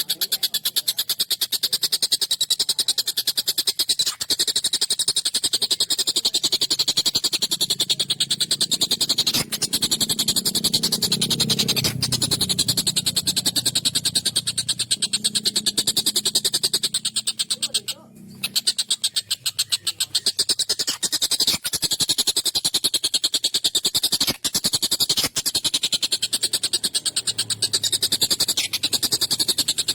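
Tengkek buto kingfisher calling: a harsh, rapid, rattling chatter repeated on and on, broken off briefly about two-thirds of the way through.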